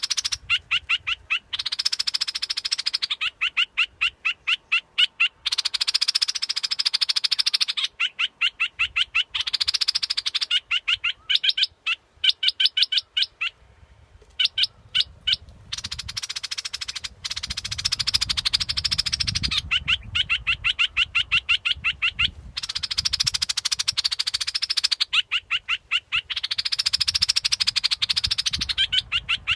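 Recorded bulbul song played as a decoy call for trapping: a rapid series of chattering notes, then a dense, buzzy phrase, repeating about every four seconds with a short break midway. A low rumble runs underneath.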